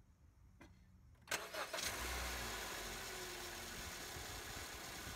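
Honda Civic engine being started: a small click, then a little over a second in the starter cranks briefly, the engine catches and settles into a steady idle, turning a newly fitted serpentine belt.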